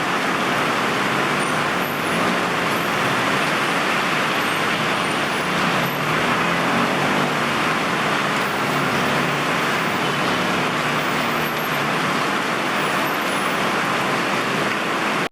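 Heavy rain pouring steadily alongside road traffic, with tyres hissing on the wet road and a vehicle's engine faintly heard around the middle.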